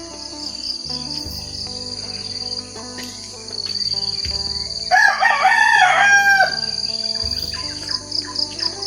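A rooster crows once, a loud call of about a second and a half starting about five seconds in, over steady high-pitched chirping and trilling of small birds.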